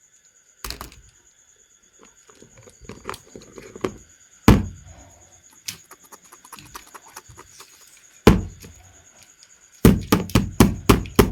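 Hard plastic toys being handled, knocking and clattering against a surface. Single sharp knocks come about a second in, near the middle and about three-quarters through, then a quick run of about six knocks near the end, with faint clicks and rustling between.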